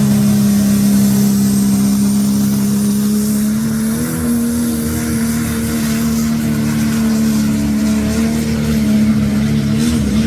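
Dodge pulling truck's engine running at high, steady revs during a pull down the track. Its pitch steps up slightly about four seconds in and dips briefly near the end.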